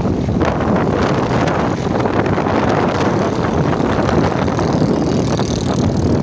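Motorcycle engine running steadily on the move, mixed with wind buffeting the microphone.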